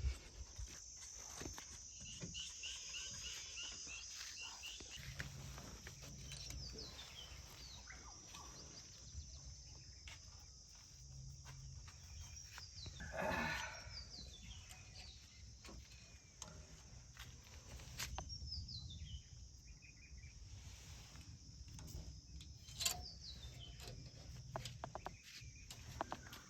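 Rural outdoor ambience: a steady high insect drone with short bird chirps over a faint low rumble, and one louder animal call about halfway through.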